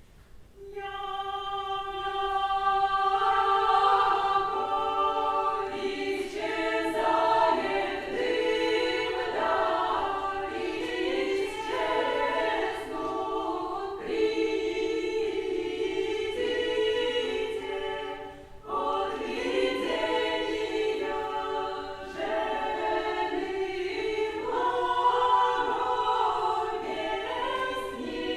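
Choir singing Old Russian music unaccompanied. It opens on one held note, other voices join in moving parts, and there is a brief break about two-thirds of the way through before the singing resumes.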